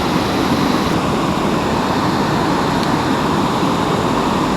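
Steady, loud rushing noise with no distinct events in it.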